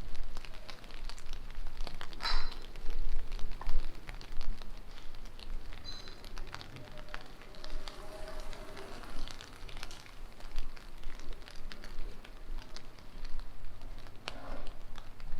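Steady rain pattering, with many scattered drop ticks.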